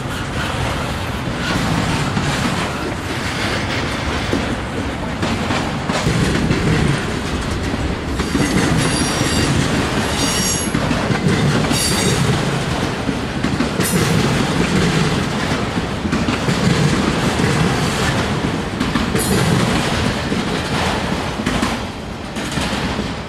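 Freight train cars rolling past on the rails, wheels clacking over rail joints, with high-pitched wheel squeal at times around the middle.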